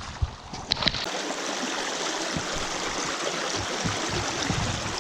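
Steady rush of water in a small mountain stream, with a few short knocks in the first second.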